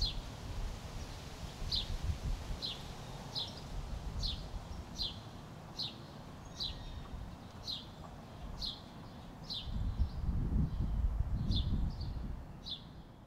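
A songbird calling over and over: short, high chirps that slide downward, repeating a little faster than once a second. Beneath them a low outdoor rumble swells about ten seconds in.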